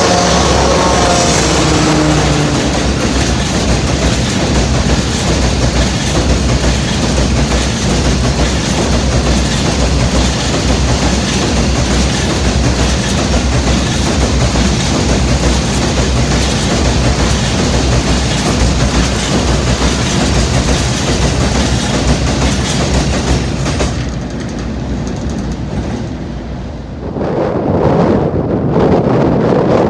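Freight train wagons rolling past close by, with a steady, dense clatter of wheels over the rails. The clatter fades away a little over 24 seconds in, and wind buffets the microphone near the end.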